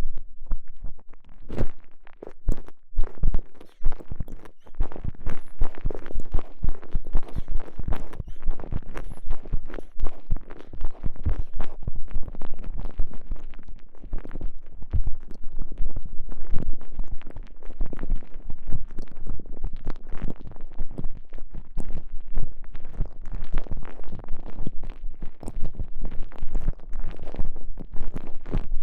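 A microphone pushed inside a TENGA Egg's stretchy elastomer sleeve, with the sleeve squeezed and rubbed around it. It gives a dense, irregular stream of close rubbing and clicking noises that runs without pause.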